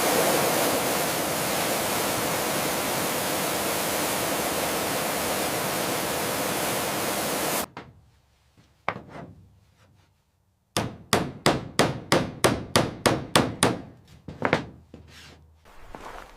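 A loud, steady hiss that cuts off suddenly, then after a short lull a run of hammer blows, about three strikes a second, during restoration work on a vehicle.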